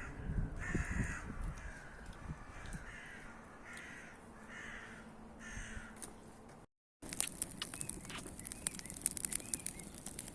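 A crow cawing, a series of harsh falling calls repeated roughly once a second. After a cut, scattered sharp clicks and crackles follow.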